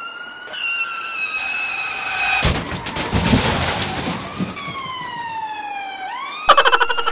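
Police siren wailing, its pitch gliding slowly up and down, broken in the middle by about two seconds of loud clattering noise. Near the end it switches to a loud, fast pulsing yelp.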